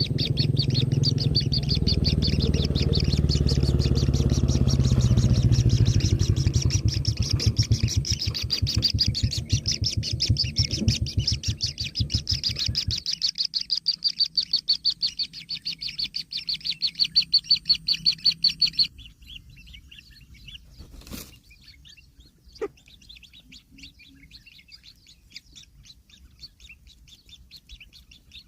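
Kingfisher chicks chirping in a fast, even, continuous series, with a low rumble underneath for the first half. About two-thirds of the way through the chirping breaks off sharply, leaving fainter scattered chirps.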